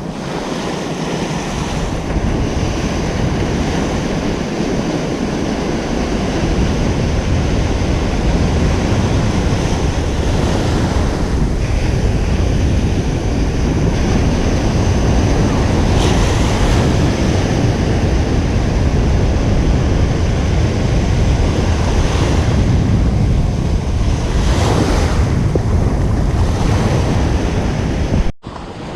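Ocean surf: waves washing and breaking on a beach in a steady, continuous rush, with wind rumbling on the microphone. The sound cuts out for a split second near the end.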